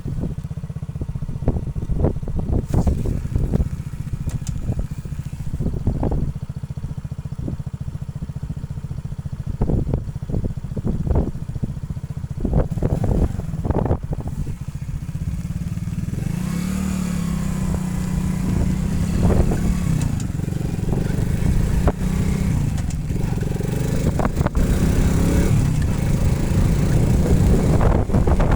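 Motorcycle engine running, with scattered knocks and clatter in the first half. From about halfway it pulls steadier and gradually louder.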